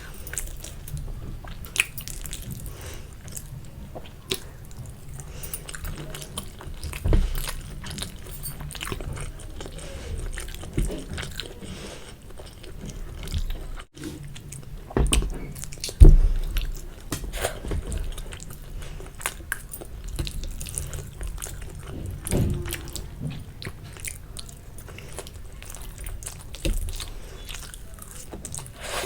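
Close-miked eating of spicy Maggi instant noodles and boiled egg: slurping, chewing and mouth sounds, with a few louder bumps about a quarter and halfway through and near three-quarters of the way.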